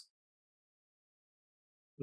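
Near silence: a pause in the narration with no audible sound.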